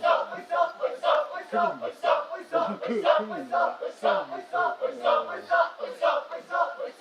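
A group of men shouting a rhythmic chant in unison, about two shouts a second.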